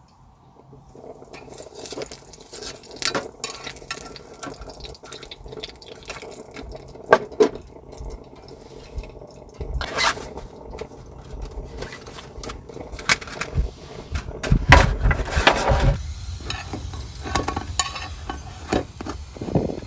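Small objects being handled close to the microphone: a run of irregular clicks, knocks and rustles, with a louder burst of handling noise about fifteen seconds in.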